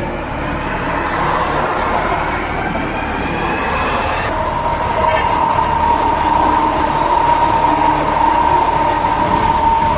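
Train running on the rails, a continuous rushing noise with a whine that rises in pitch over the first few seconds, then a steady high whine from about four seconds in.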